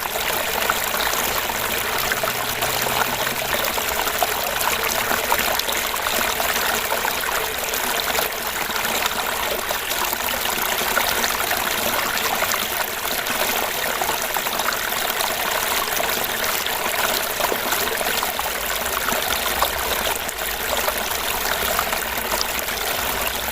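Small fish-pond waterfall: water splashing and trickling steadily into the pond.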